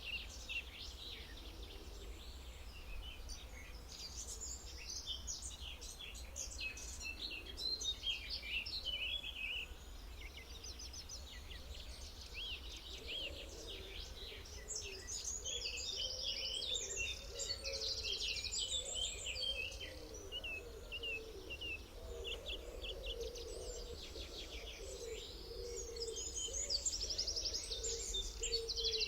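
A dense chorus of songbirds chirping and trilling, with many short whistles and rapid trills overlapping. A lower wavering call joins about halfway through, over a steady low rumble.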